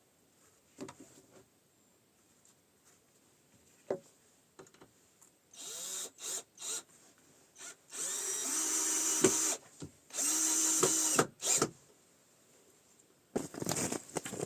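Power drill running in short bursts, then two longer runs of a couple of seconds each at a steady pitch, with a few knocks and clatters of tools on wood around them.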